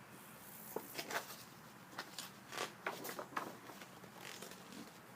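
Faint, scattered rustles and light taps of paper handling, a picture book's page being turned.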